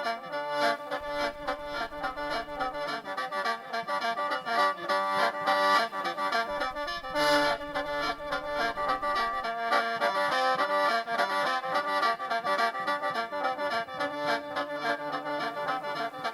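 Khaen, the Isan bamboo free-reed mouth organ, playing an instrumental passage of mor lam, a quick running melody over held drone notes.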